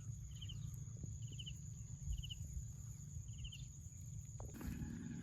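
Insects outdoors: a cricket giving five short pulsed chirps, spaced a little under a second apart, that stop after about three and a half seconds. Under them is a steady high-pitched insect drone and a low rumble.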